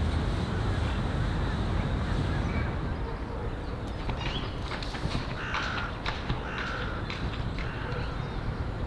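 A bird calls three times, about a second apart, in the second half, over a steady low rush of wind and water.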